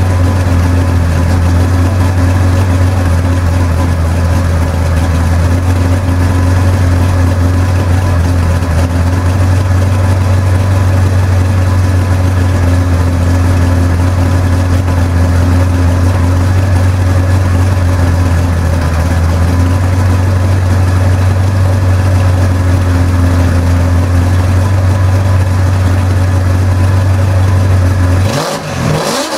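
Holden 308 V8 running through a dual exhaust with Aeroflow mufflers, idling steadily with a strong low note, then revved near the end.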